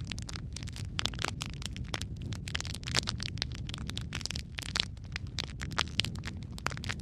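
Wood fire in a fireplace burning, with dense, irregular crackles and pops from the logs over a low steady rumble of the flames.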